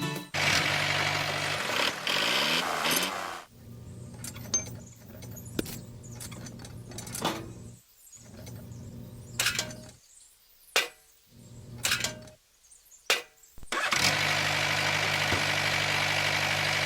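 A small engine running steadily, then dropping to a quieter run for about ten seconds with scattered sharp clicks and knocks, then running loud and steady again near the end.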